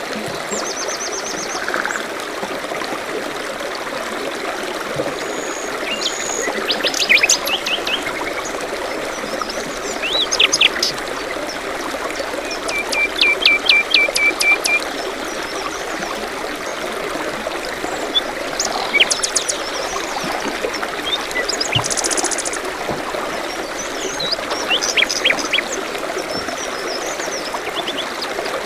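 A small stream trickling steadily, with songbirds singing over it in short trills and quick runs of repeated notes, several separate phrases through the stretch.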